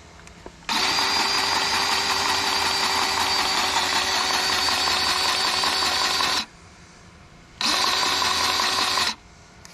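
Cordless electric grease gun motor running in two bursts, a long one of about six seconds and a shorter one of about a second and a half, each starting and stopping abruptly. It is pumping grease into an excavator grease fitting before the grease shows at the joint.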